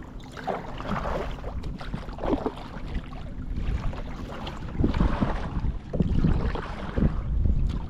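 Wind buffeting the microphone over water sounds around a kayak, gustier and louder in the second half.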